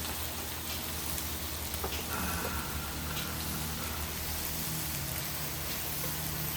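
Food sizzling and crackling on a hot cast-iron pot-lid griddle, a steady hiss with scattered small pops. A low hum joins about three seconds in.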